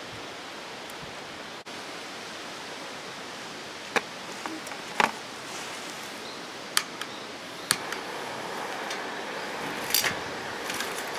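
Steady outdoor rushing noise with about five short, sharp clicks scattered through it.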